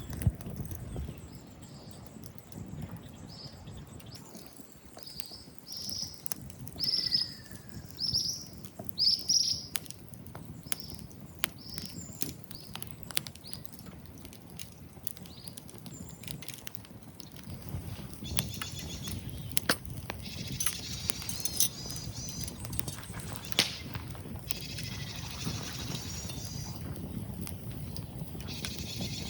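A bird calling in a run of short chirps during the first third, over scattered sharp pops and crackles from a small wood fire. From about the middle, bursts of a higher chattering trill come and go over a low rumble.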